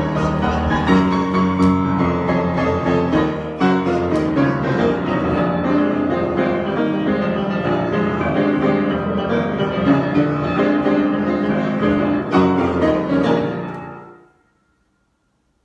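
Improvised piano music, many notes sounding together at a steady level, then dying away to silence about fourteen seconds in.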